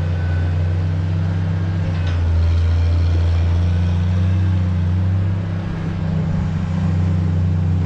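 A vehicle engine running steadily with a low drone, picking up slightly about two seconds in.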